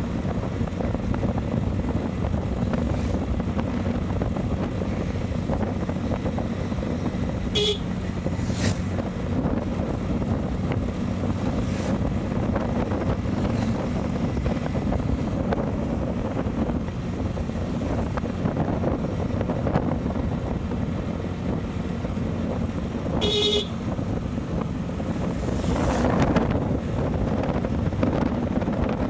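Wind rushing over the microphone and a motorcycle running at road speed, with a vehicle horn beeping briefly twice, about 8 seconds in and again about 23 seconds in.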